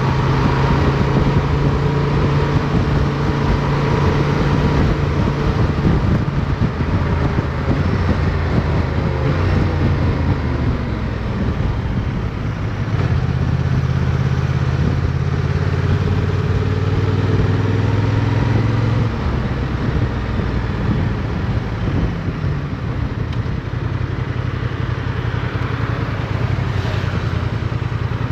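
Motorcycle engine running while riding, its pitch falling and rising as the throttle and gears change through the turns, with wind rushing over the microphone.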